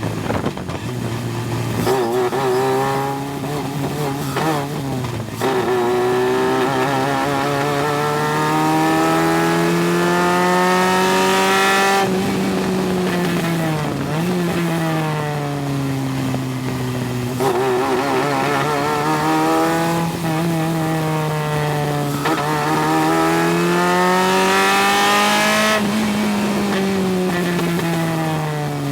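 Single-seater race car engine recorded on board, at full throttle on track: the pitch climbs through each gear and drops sharply at the shifts and lifts, again and again.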